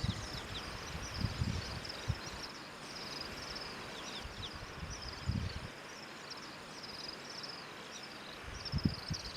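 Insects chirping in a steady high trill, with a few brief low thumps about a second in, around five seconds in and near the end.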